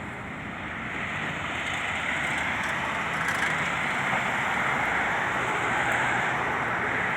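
Road traffic passing: vehicle engine and tyre noise that swells about a second in and stays loud.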